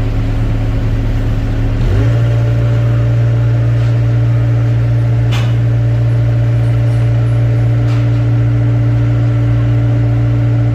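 Excavator engine running steadily; its note steps up slightly about two seconds in and then holds. Two sharp knocks, about five and eight seconds in.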